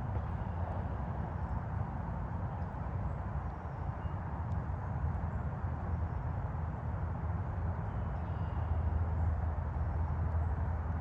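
Distant highway traffic as a steady low rumble that swells toward the end, under an even hiss, with a few faint bird chirps.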